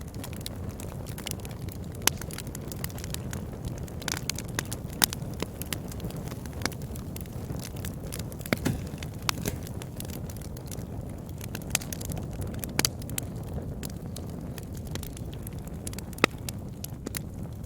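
Wood fire burning in a fireplace: a steady low rumble of flames with sharp pops and crackles of burning logs at irregular moments, a few louder pops standing out.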